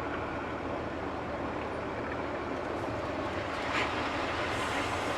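Beet truck's engine running steadily, an even low drone.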